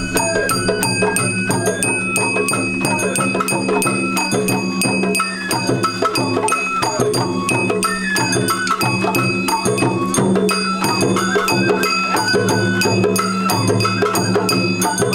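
Sawara festival hayashi music played on a float: a bamboo flute melody over taiko drums and a small hand gong struck in a fast, steady rhythm.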